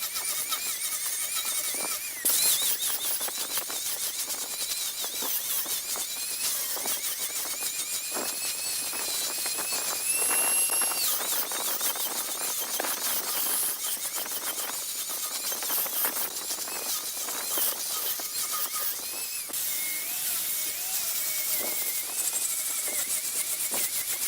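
A turning tool cutting wood spinning on a lathe, giving a high-pitched, wavering squeal with many small ticks and scrapes. The pitch holds steadier for about a second near the middle.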